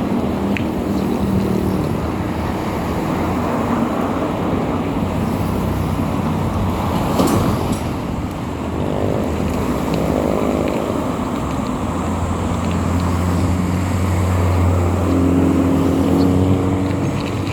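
Road-vehicle engine and road noise heard while riding, steady and loud. An engine drone rises and holds around 9 and 15 seconds in, and there is a short whoosh about 7 seconds in.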